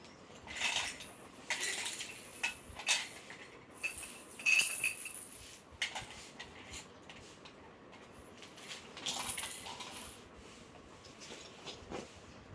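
Irregular clinking and rattling of small hard objects, in several short bursts with quieter gaps between them; one burst about four and a half seconds in carries a brief ringing tone.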